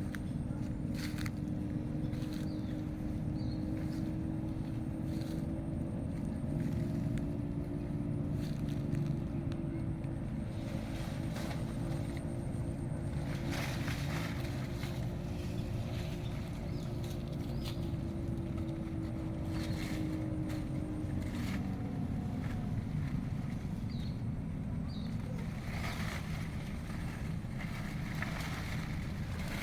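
A motor running with a steady hum, its pitch sagging a little about two-thirds of the way through, with scattered light clicks over it.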